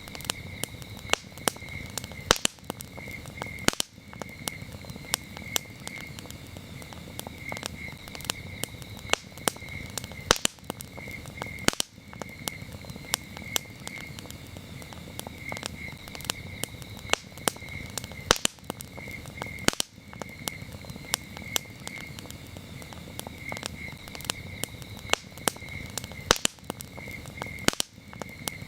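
Campfire crackling, with frequent sharp irregular pops over a low steady hiss of burning wood. Crickets chirp in steady repeated pulses behind it.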